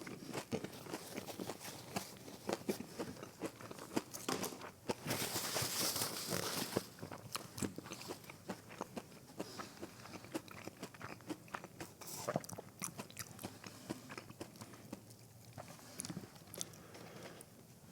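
Close-miked biting and chewing of breaded fried mozzarella sticks: many crisp crunches and crackles of the fried coating, with a louder, denser run of crunching about five to seven seconds in.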